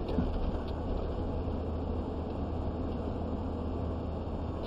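Steady engine and road noise heard from inside a moving vehicle's cabin, a constant low rumble.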